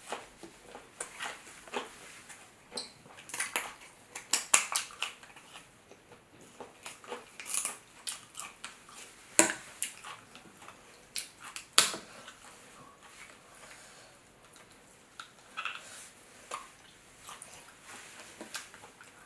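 Eating crab from a seafood boil: irregular cracks, clicks and crunches of crab shell being broken and eaten, two louder snaps about nine and twelve seconds in.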